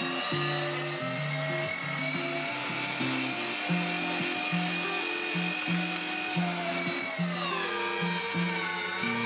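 Electric meat grinder motor whining steadily, its pitch sagging about seven seconds in and rising again near the end, over background music with a plodding bass line.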